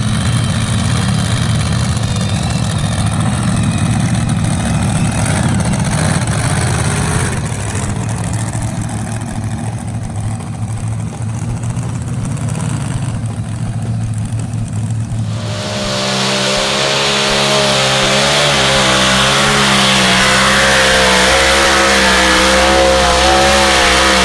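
A pulling vehicle's engine running hard under load, low and rough for about fifteen seconds, then suddenly louder with a steady, slightly wavering pitch and a strong hiss over it.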